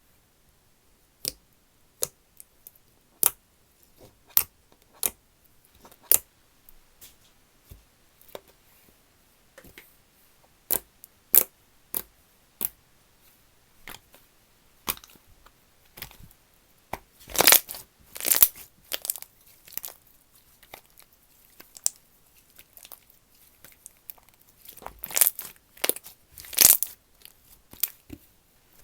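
Slime being pressed and stretched by hand, giving sharp pops and clicks about once a second. Twice, about halfway through and again near the end, it breaks into denser runs of louder crackles.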